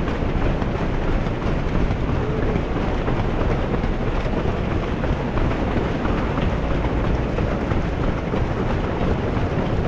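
Steady low rumbling wind noise buffeting the camera's microphone, with no distinct events.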